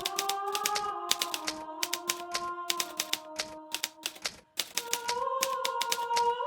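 Hermes Baby manual portable typewriter typing in quick runs of key strikes, with a brief pause a little past halfway. Soft background music of slowly changing held notes plays underneath.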